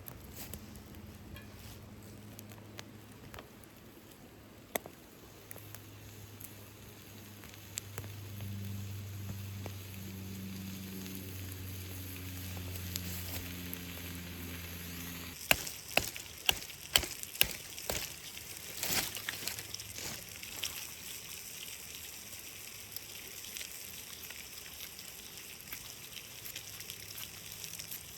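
Food frying in a cast iron skillet over a campfire, a steady sizzle. A low hum runs through the first half, and about halfway through comes a quick run of sharp knocks and crackles.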